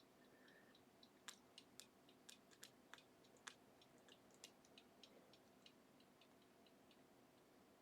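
Faint, irregular clicks and ticks of a lock pick working the gin spool pins inside an Assa Ruko 500 pin-tumbler cylinder. The clicks come thicker in the first few seconds, then sparser.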